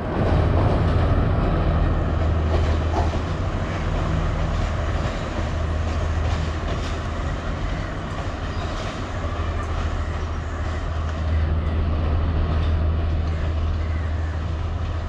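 Sri Lankan diesel multiple unit running away along the tracks: a steady low engine drone over wheel and rail rumble, easing slightly as it recedes.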